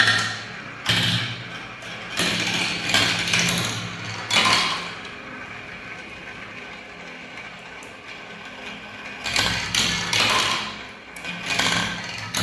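Marbles rolling and clattering down a spiral-ramp marble run: bursts of rattling clicks and knocks, a quieter stretch of steady rolling in the middle, then the clatter picks up again about nine seconds in.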